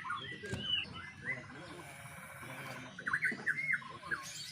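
A caged white-rumped shama (murai batu) singing short whistled phrases: a couple of single chirps, then a quick run of arched notes near the end.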